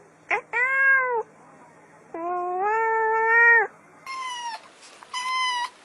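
Cat meowing: a quick rising blip, then a meow, a long drawn-out meow, and two shorter, higher meows.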